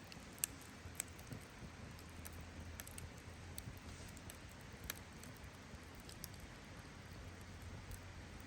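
Wood campfire crackling: sharp, irregular pops and snaps over a faint, steady background, with the loudest pop about half a second in and another strong one near five seconds.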